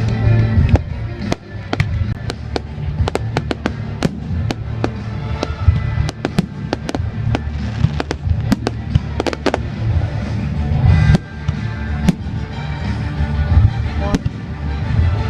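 Fireworks going off in quick succession, with many sharp bangs and crackles that come thickest in the first two thirds, over loud music playing as the display's soundtrack.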